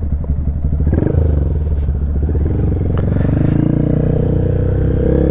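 Honda Grom's 125 cc single-cylinder engine running through an aftermarket loop exhaust under way; the revs rise about a second in, then hold steady.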